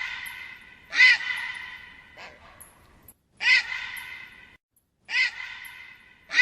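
Harsh cawing calls repeated about every one and a half seconds, given as the call of a vulture (urubu). Each call starts sharply, trails off and is then cut short.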